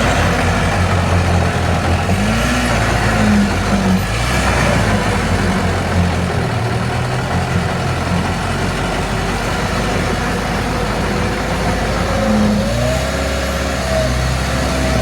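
Diesel engine of heavy earthmoving machinery running under load, its pitch rising and falling a few times as it revs.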